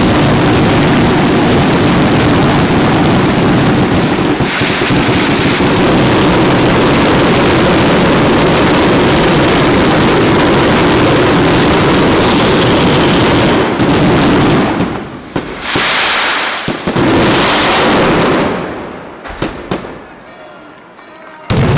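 Daylight fireworks barrage: explosions so dense they merge into one continuous loud roar. About fourteen seconds in it breaks up into a few separate heavy blasts that die away, and a single last bang comes near the end.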